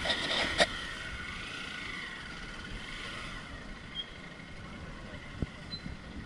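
Off-road motorcycle engine running some way off, its pitch rising and falling and then fading away over the first few seconds, with a knock about half a second in and a couple of brief high chirps later.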